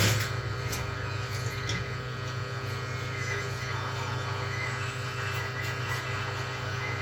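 Steady electrical hum from bench equipment, with a few faint clicks.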